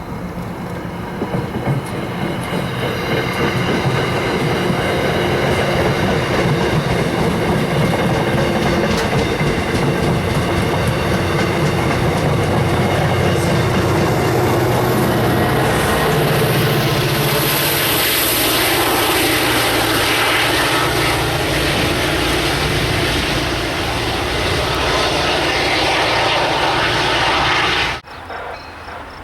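Train passing close at speed: a steady loud rumble and clatter of wheels on the rails, building over the first few seconds. It cuts off abruptly about a second before the end.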